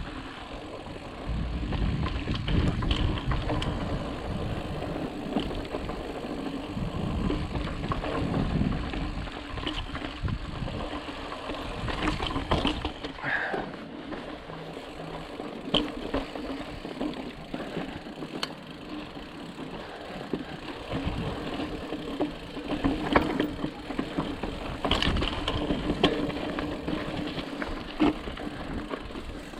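Full-suspension mountain bike being ridden over rock: tyre noise and a steady hum, with the chain and frame rattling and scattered knocks over bumps. Wind rumbles on the microphone through the first half.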